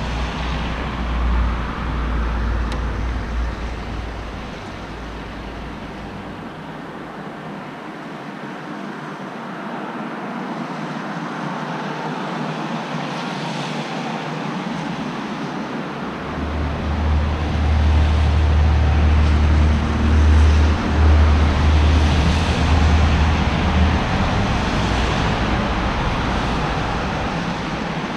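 Road traffic noise: vehicles passing with a steady hiss of tyres and a deep low rumble that fades out early on and returns, louder, about halfway through for several seconds.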